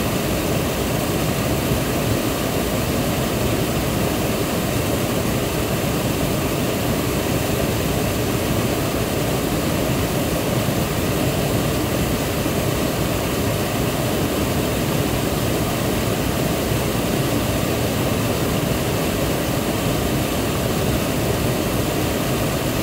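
Waterfall: water falling and splashing in a steady, unbroken rush, heaviest in the low and middle range.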